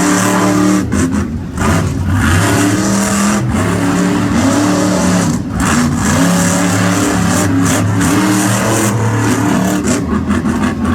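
Monster truck engines revving hard during a race, their pitch rising and falling, with several short dips as the throttle is lifted.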